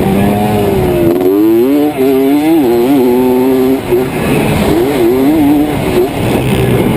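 Motorcycle engine running hard at high revs, its note rising and falling repeatedly with the throttle. There are short dips where the throttle is eased or a gear is changed, about a second in, near the middle and near the end.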